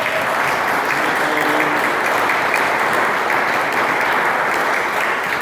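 A room of supporters applauding, steady dense clapping.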